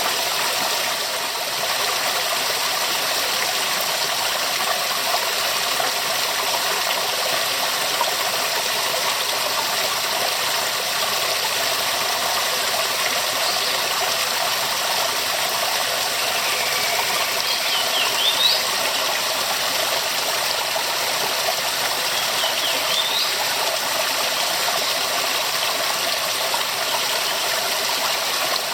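Waterfall: steady rushing, splashing water with no change in level. A few faint, short, high rising chirps sound twice past the middle.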